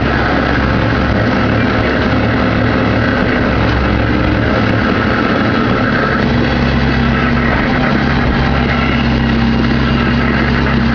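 Diesel engine of a Volvo ECR88 Plus compact excavator running steadily under load while loading a tipper truck, a constant low hum without pauses.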